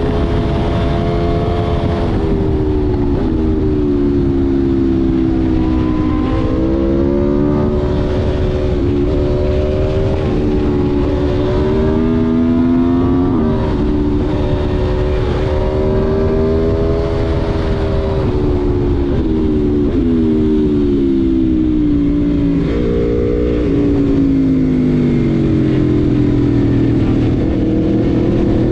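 Aprilia Tuono V4 1100's V4 engine pulling hard under way, its pitch climbing and then dropping sharply several times as it shifts up or backs off.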